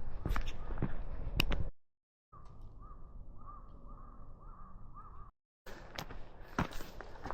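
Crows cawing repeatedly in a short, muffled stretch between two cuts. Sharp crunching clicks come before and after it.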